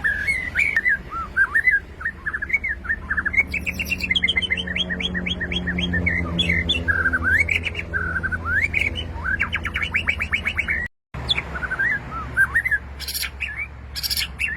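White-rumped shama singing a varied song of whistled notes and fast trills, with a brief dropout about eleven seconds in and a steady low hum underneath.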